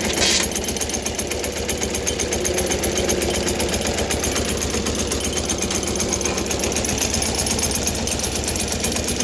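Air-cooled single-cylinder Deutz diesel of an old Case roller compactor running under load with a fast, steady knocking pulse; the owner suspects it is short of power. A brief hiss sounds right at the start.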